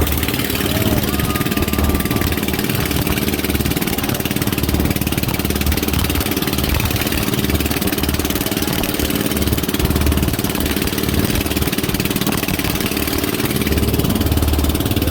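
Small boat's engine running steadily under way, a constant low drone with a steady hiss over it.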